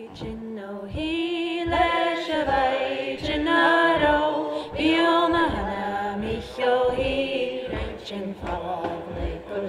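A group of men and women singing a Gaelic milling song unaccompanied, with a steady, rhythmic thumping of wool cloth being beaten on the milling table, about two or three beats a second.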